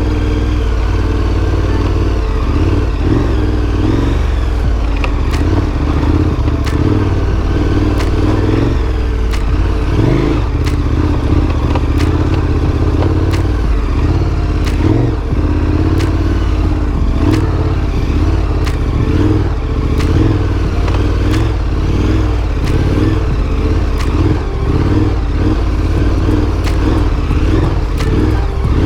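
Big adventure motorcycle's engine running under load on a dirt trail, its pitch rising and falling with the throttle, with frequent sharp clicks and clatter throughout.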